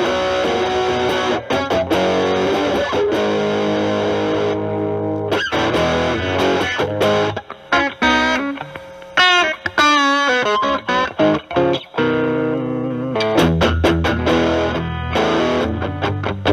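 Electric guitar, a Stratocaster with single-coil pickups, played through a Proco RAT2 distortion stacked with an Ibanez TS9 Tube Screamer into a Marshall Valvestate amp, giving a distorted tone. Sustained chords give way about halfway through to single-note lead lines with bends and vibrato, and fuller chords return near the end.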